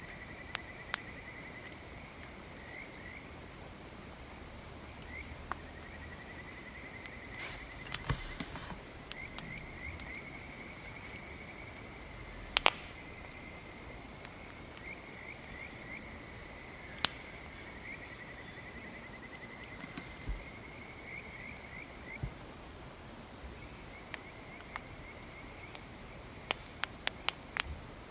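Campfire crackling, with sharp pops scattered through and a quick run of them near the end, over a steady high trill of insects. There is a brief rustle about eight seconds in.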